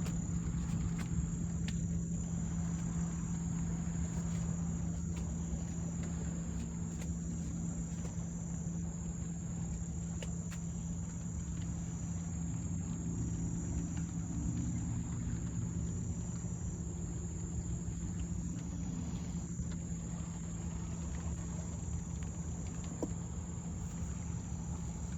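Summer insects calling: a steady high trill with a shorter high chirp repeating about every two seconds, over a steady low hum.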